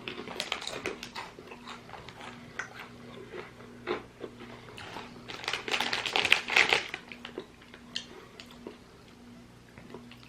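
Crisp, brittle crunching of Scotch bonnet crisps being bitten and chewed, a run of sharp crackles with the loudest flurry a little past the middle.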